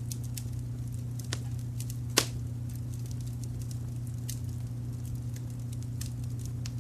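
Wood fire crackling with scattered small pops, a sharper pop about two seconds in, over a steady low rumble of brown noise.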